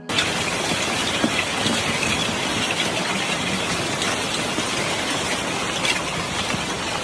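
Gas and mud bursting out of the ground from a gas mud deposit: a loud, steady rushing spray with scattered crackles, starting abruptly.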